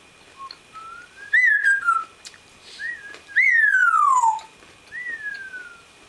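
African grey parrot whistling a run of gliding notes: a short note, a whistle that rises then falls, a brief chirp, and the loudest, a long whistle sliding steadily down in pitch about halfway through, followed by one more falling whistle.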